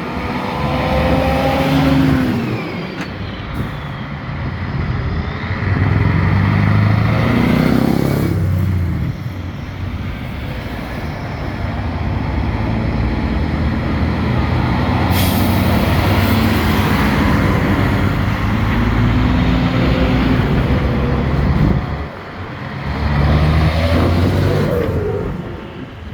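Several old trucks driving past one after another, their engines swelling and fading with each pass. There is a short hiss of air about halfway through.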